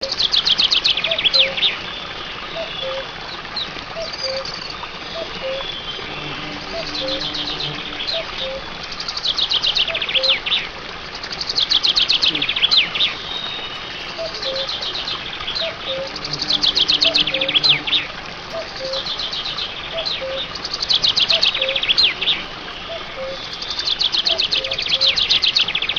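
Birds chirping in quick trills of high notes, a burst every two seconds or so, with softer, lower repeated notes beneath.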